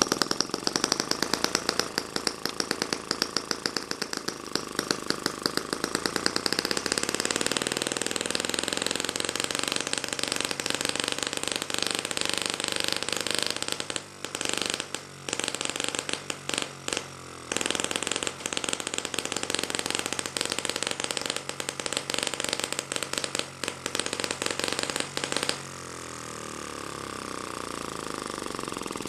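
M12 mini four-stroke, water-cooled gasoline model engine running with fast, popping exhaust beats. It skips a few beats in the middle, then near the end settles to a softer, smoother run that slowly builds again.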